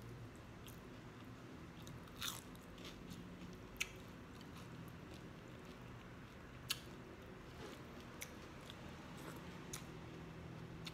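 A person chewing a mouthful of rice and fish eaten by hand, with a few sharp small clicks scattered through it.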